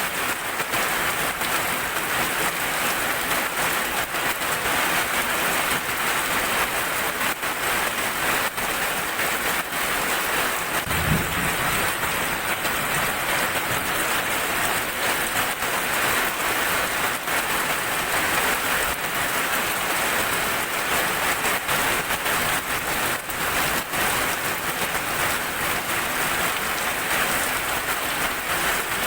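Steady rain falling and pattering on surfaces, with one short low rumble of thunder about eleven seconds in.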